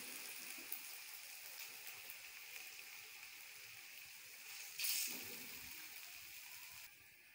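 Faint, steady sizzling of okra masala in a hot aluminium karahi just taken off the flame, with one short louder scrape about five seconds in. The sizzle drops away shortly before the end.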